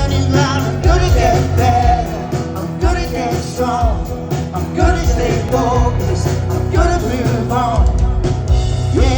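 Live rock band music with a singing voice, loud and steady.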